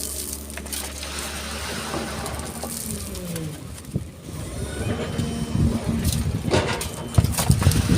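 Excavator's diesel engine running steadily, its pitch falling off about three seconds in. From about five seconds in, irregular heavy clunks and rumble rise as the bucket works through sand and stone.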